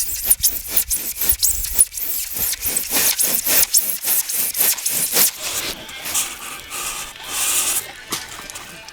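A saw cutting extruded polystyrene (XPS) foam board with a squeaky rubbing scrape, in quick back-and-forth strokes of about three a second. About five seconds in, the strokes blur into a steadier scraping.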